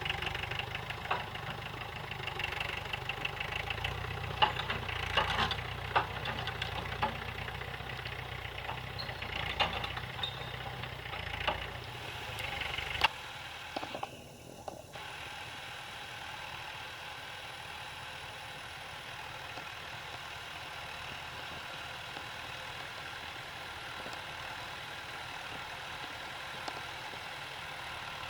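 Tractor engine running under work, with scattered sharp clanks and knocks over its deep rumble. About thirteen seconds in, the deep rumble drops away, leaving a steadier, quieter engine hum.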